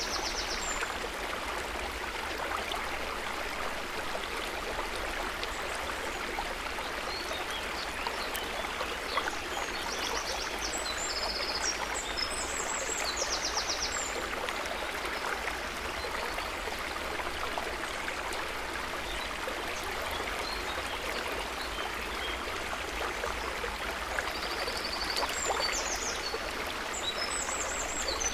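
River water running steadily, with clusters of short high chirping calls about ten seconds in and again near the end.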